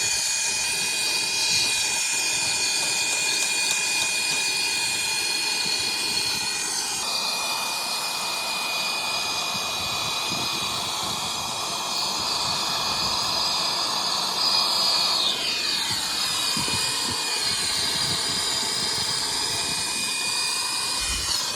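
Acetylene brazing torch flame hissing steadily as it heats the filter drier's brazed joints to unsweat them, with steady whining tones over the hiss. The sound shifts about a third of the way in, and there is a falling pitch glide a little past two-thirds through.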